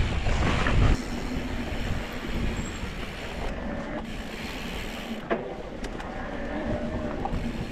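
Electric mountain bike rolling over a dirt and rock trail: steady tyre and rattle noise with a faint hum and a few sharp clicks and knocks from the bike.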